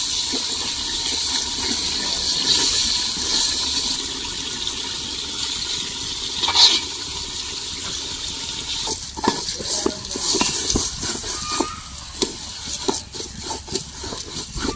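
Water pouring and splashing for about nine seconds, giving way to a run of light knocks and clinks.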